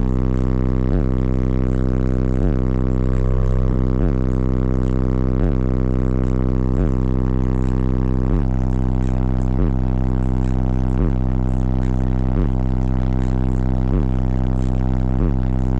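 Car audio subwoofers playing a bass demo track loud: deep sustained bass notes with a short hit about every second and a half. The bass line changes about eight seconds in.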